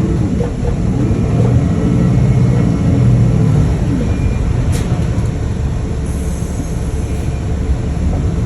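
A motor vehicle's engine running, a steady low rumble, with a brief hiss about six seconds in.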